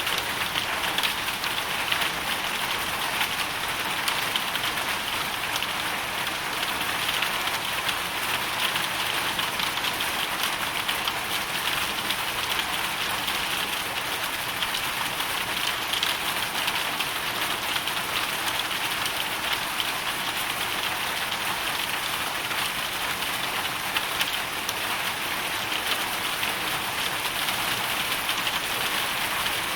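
Hailstorm: a steady, dense patter of many small hailstones and raindrops striking.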